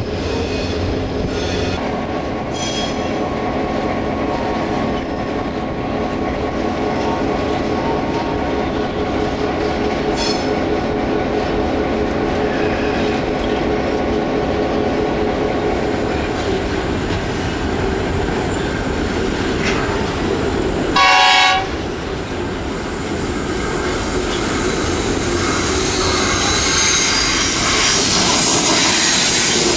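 Diesel locomotives running with trains moving over the rails, with steady engine drone and wheel and rail noise. About two-thirds of the way through comes one short, loud horn blast.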